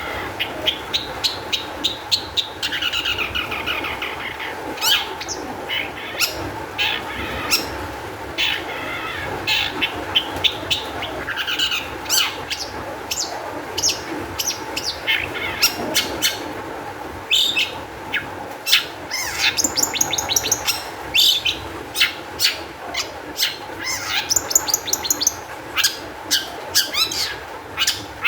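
Long-tailed shrike singing excitedly: a dense run of sharp chips mixed with short rapid trills and harsher chattering phrases.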